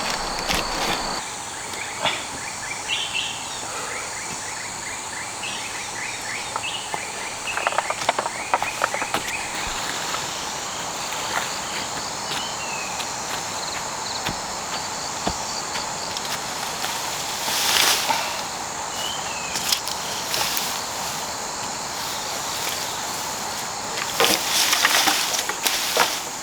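Forest ambience: a steady high insect drone with scattered short bird chirps, broken by a few brief bursts of noise, the loudest near the end.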